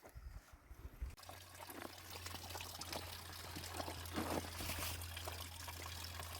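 Water pouring and trickling, over a steady low hum that starts about a second in.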